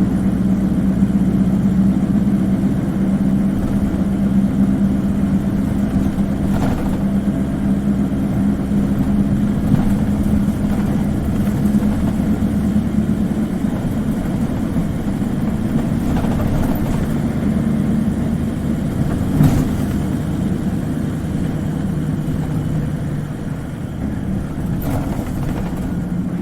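Isuzu Cubic KC-LV380N city bus's diesel engine running at a steady drone inside the cabin, with a few short knocks and rattles from the bus body.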